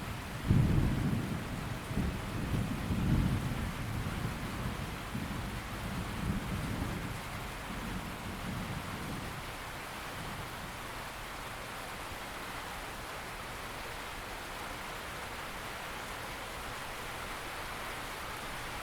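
Steady rain with a low rumble of thunder that breaks in about half a second in, swells a few times and rolls away by about nine seconds, leaving only the even patter of rain.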